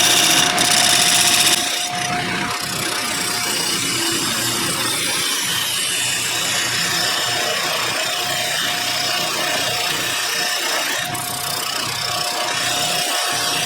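Wood lathe running with a steady motor whine while a turning tool scrapes and cuts the spinning wooden bowl, a rough, rasping sound. It is a little louder for the first second and a half, then settles.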